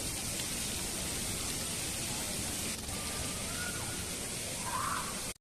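Steady rushing of running water, an even hiss with no rhythm, with a faint short chirp about three seconds in and another near the end. The sound cuts off abruptly at the very end.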